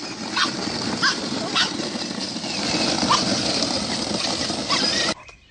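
A dog giving several short, high, rising yelps over steady background noise. The sound cuts off abruptly about five seconds in.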